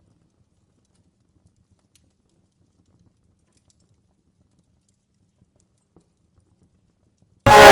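Campfire crackling, very faint with scattered soft low pops, close to silence. Loud music cuts in abruptly right at the end.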